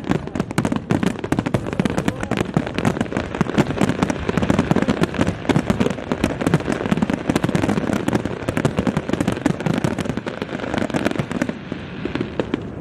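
Fireworks going off in a rapid, continuous barrage of bangs and crackles, thinning out a little near the end.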